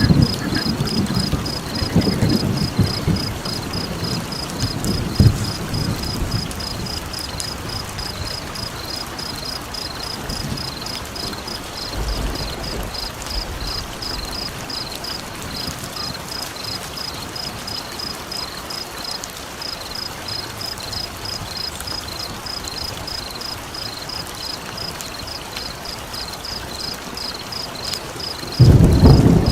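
Layered nature ambience: a steady rain-like hiss under an even, high chirping repeated about three times a second. Low thunder-like rumbles are loud in the first few seconds, fade away, and return suddenly near the end.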